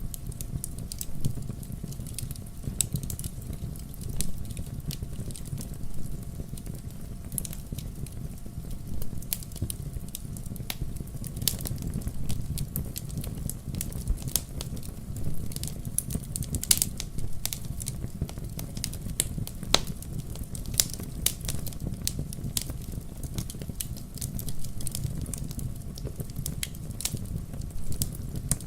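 Wood fire burning in a fireplace: logs crackling with frequent sharp, irregular pops over a steady low rumble of the flames.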